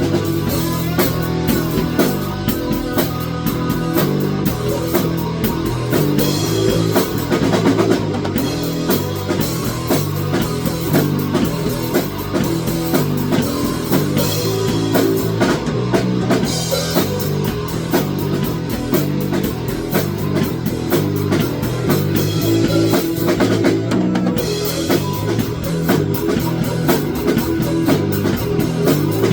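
Rock music played on drum kit, guitar and bass, with a steady beat.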